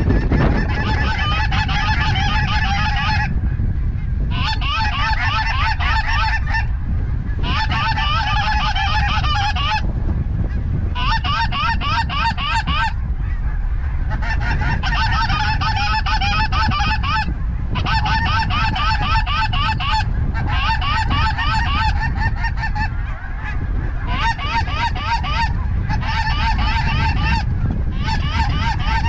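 Geese calling in dense stretches of rapid, high honks a few seconds long, broken by short pauses, over a heavy low wind rumble on the microphone.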